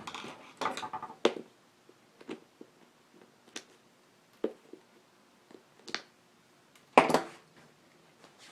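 Scattered sharp clicks and small knocks of staples being pried out of a motorcycle seat pan to loosen and refit the cover, with the loudest snap about seven seconds in.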